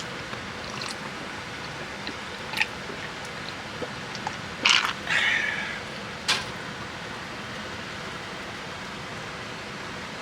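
Steady rain hiss, with scattered light clicks and a short loud clatter of knocks around the middle.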